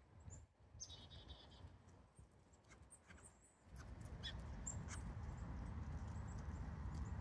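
Small wild birds chirping with brief high calls, including a short trilled call about a second in. A steady low rumble comes up just past halfway and runs under the chirps.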